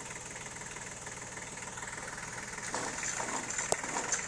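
An engine idling steadily, with a single sharp click about three and a half seconds in.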